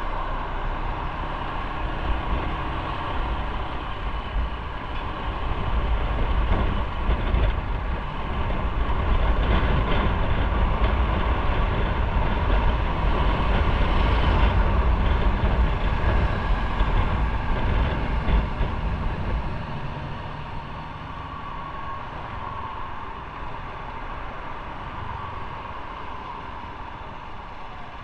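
Motorcycle on the move: engine running under wind rushing over the microphone. The deep rumble swells louder through the middle stretch, then eases off about two-thirds of the way through as the bike slows.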